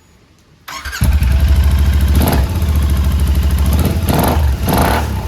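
Royal Enfield Continental GT 650's parallel-twin engine starting up under a second in, then running loud with three quick throttle blips. It breathes through newly fitted aftermarket exhausts with their dB killers still in place.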